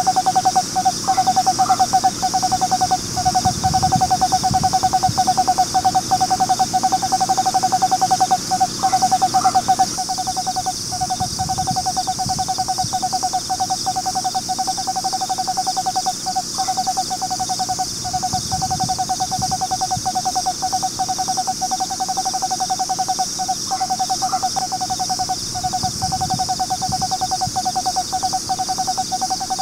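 Eastern screech owl giving its long monotone trill, a rapid even-pitched purring note held for several seconds at a time with only brief breaks between trills. A steady high hiss runs underneath.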